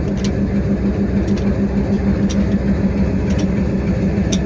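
Railway locomotive engine running steadily: a deep, even drone with a steady low tone, and faint ticks about once a second.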